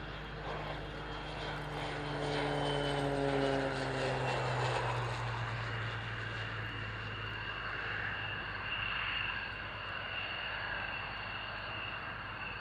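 Propeller aircraft passing by. Its engine note falls in pitch as it goes past, is loudest about three to four seconds in, and then settles to a steady lower drone.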